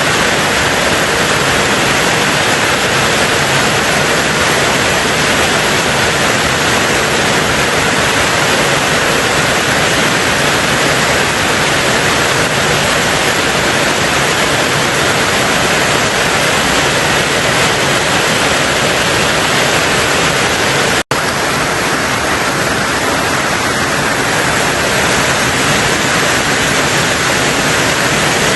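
Heavy rain drumming steadily on a tin roof, a dense even hiss of drops. The sound cuts out for an instant about two-thirds of the way through, then carries on.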